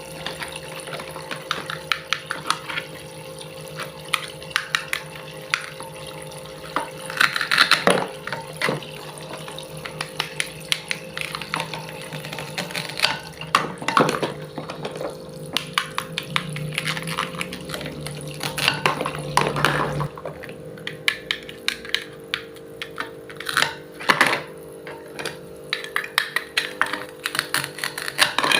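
Irregular taps, clacks and scrapes of food preparation and kitchen utensils being handled, some loud, over a steady low hum.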